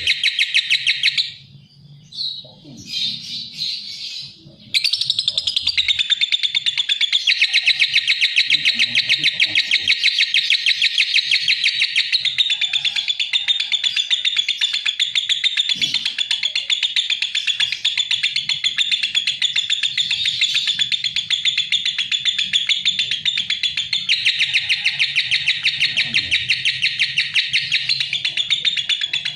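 Lovebird chattering: a fast, unbroken stream of shrill, high chirps, with short breaks about a second in and again around four to five seconds in.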